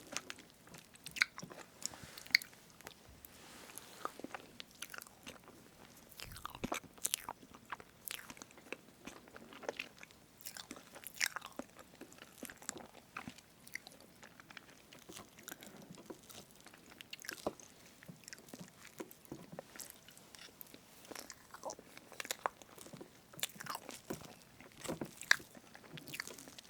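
Close-miked eating of strawberry whipped-cream cake: soft chewing and wet mouth sounds, with irregular sharp clicks scattered throughout.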